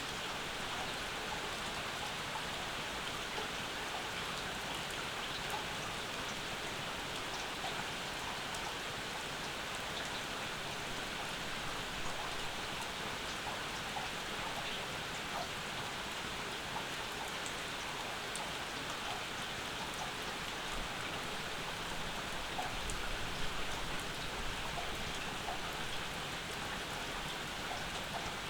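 Steady rain falling, with scattered close drips, and a brief low rumble about two-thirds of the way through.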